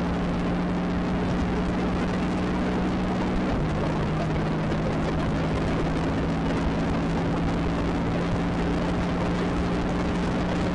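Can-Am Spyder motorcycle engine running at a steady cruise under heavy wind rush, its pitch stepping down slightly a few seconds in.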